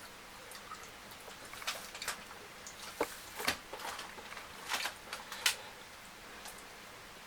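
Close-up eating sounds: chewing with soft wet mouth clicks and the crackle of fried fish, in irregular short bursts, busiest in the middle.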